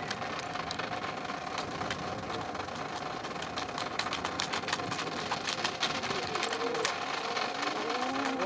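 Open-air ambience with many scattered sharp clicks and clacks, like rifles being handled and struck during a rifle drill, over a steady background hum and faint voices near the end.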